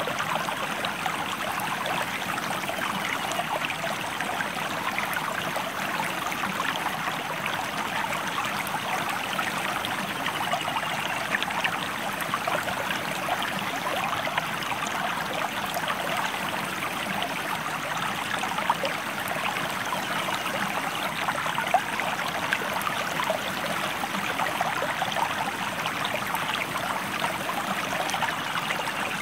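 Water of a small river or stream flowing steadily, a constant babble of many small splashes and trickles.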